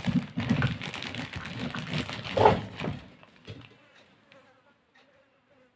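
Crackling and rustling of plastic packaging being handled for about three seconds, then a few light clicks.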